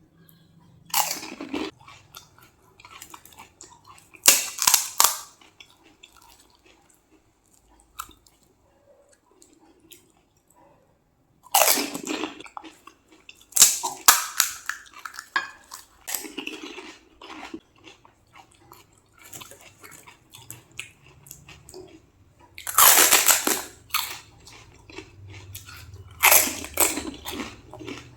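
Crispy panipuri shells being bitten and chewed: about six loud crunches spread through, with quieter crackling chewing between them.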